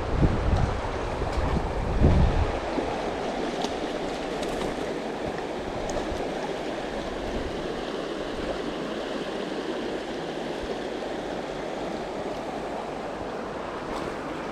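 Steady rush of a flowing stream, with wind buffeting the microphone in the first couple of seconds.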